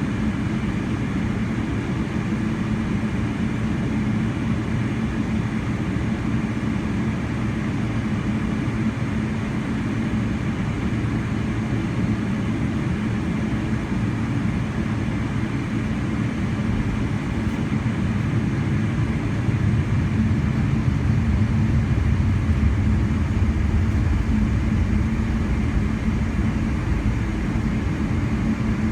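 Cabin noise inside a Boeing 777-300ER: a steady hum from its GE90 turbofan engines mixed with airflow, heavy in the low range. The low rumble grows somewhat louder about two-thirds of the way through.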